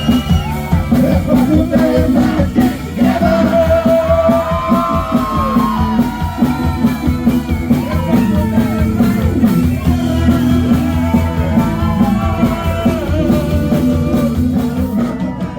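Live rock band playing the closing bars of a song, with drum kit, bass and guitars under a bending melodic line. It fades out near the end.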